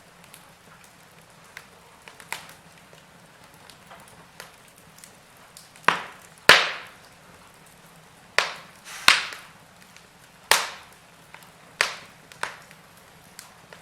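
Wood fire crackling in a fireplace: irregular sharp pops and snaps over a faint hiss, the loudest pop about halfway through and several strong ones soon after.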